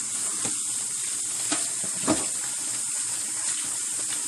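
Tap water running steadily into a sink, with a few light knocks.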